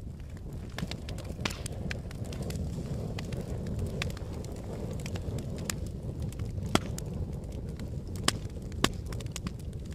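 Wood fire burning with a steady low rumble and scattered sharp crackles and pops, three louder pops in the second half.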